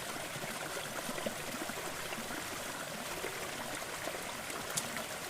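Waterfall water running steadily, an even rush with no music over it.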